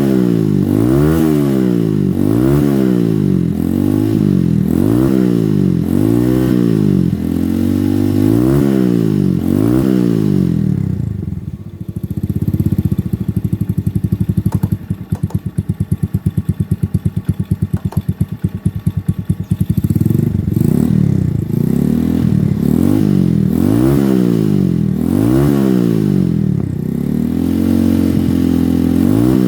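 Yamaha Vega R New's bored-up single-cylinder four-stroke engine, breathing through a Ronin Katana SE aftermarket exhaust, revved in quick blips about once a second. It drops to a lumpy, pulsing idle for several seconds midway, then is blipped again.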